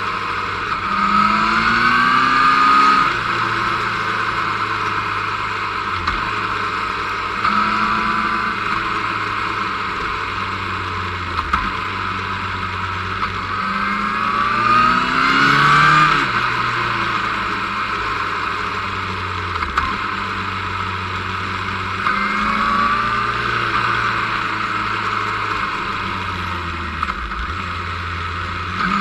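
Motorcycle engine heard from the moving bike, pulling hard out of bends with its pitch climbing about four times and easing off in between, over a steady rush of wind.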